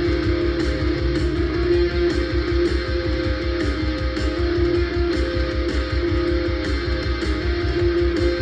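Stoner-metal recording: distorted electric guitar holding long notes over bass and drums with an even, pulsing low end.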